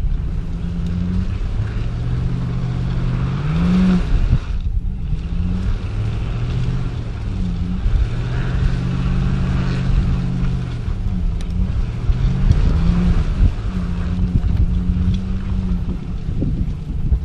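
Boat motor running under way, its pitch rising and falling several times as the throttle changes, with wind rushing over the microphone.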